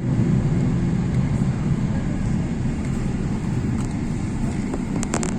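Steady low rumble of an airliner, with a few brief clicks near the end.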